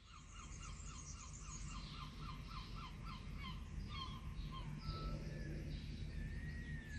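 Birds calling: a quick run of short repeated chirps, about four a second, then scattered chirps at different pitches and a thin whistled note near the end, over a faint low rumble.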